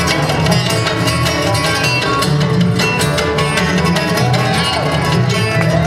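Bluegrass band playing live without singing: banjo, flat-top guitar and mandolin picking quick notes over a steady upright bass.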